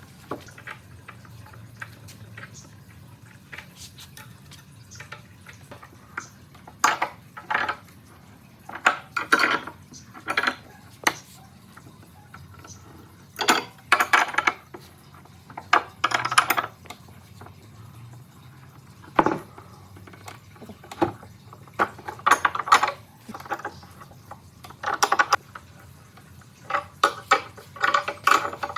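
Hand work on a wood slab: short bursts of scraping and clinking, a second or less each and a few seconds apart, with one sharp knock just past the middle.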